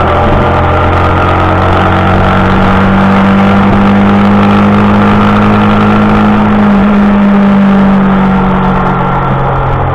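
Motorcycle engine running steadily at cruising speed. The pitch drops sharply right at the start, like a gear change, then holds. It eases lower and a little quieter near the end as the bike slows.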